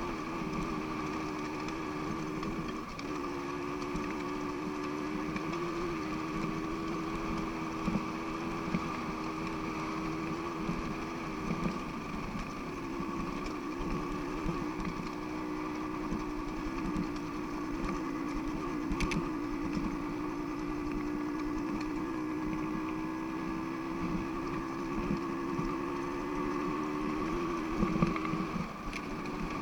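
An engine running at a steady speed, its pitch shifting slightly a few times, with a few brief knocks.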